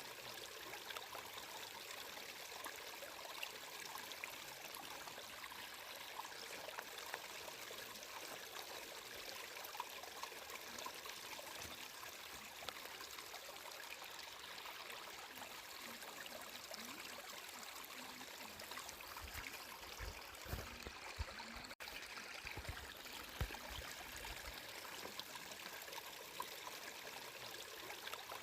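Stream water flowing and trickling steadily, with a few soft low thumps about two-thirds of the way through.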